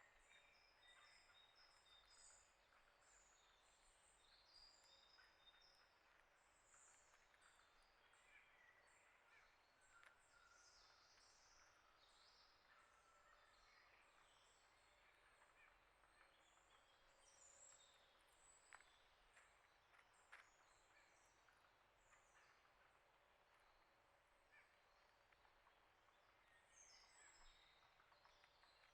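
Faint chirps and calls of small songbirds, many short high notes overlapping throughout, with a couple of sharp ticks about two-thirds of the way through.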